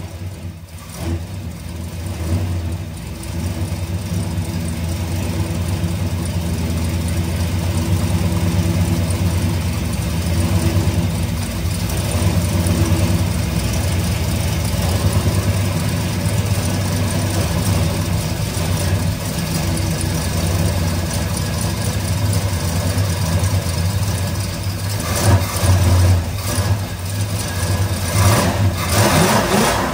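Classic car's engine idling steadily, running to circulate a cooling-system flush, with a few louder surges near the end.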